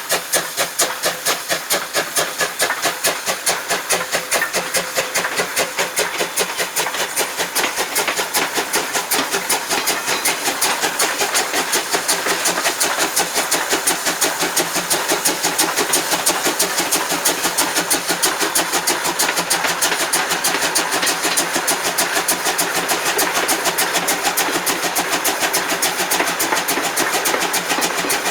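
JNR Class C12 steam tank locomotive working hard, its exhaust chuffing in a steady rhythm of sharp beats that gradually quickens as the train gathers speed.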